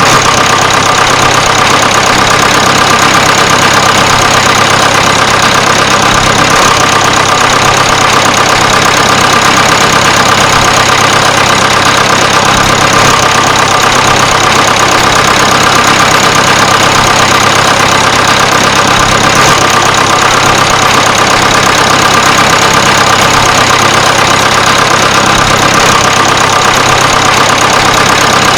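A motor running steadily at one unchanging speed, with a constant hum and a steady mid-pitched tone, the sound of the mini tractor's motor or an engine sound laid over it.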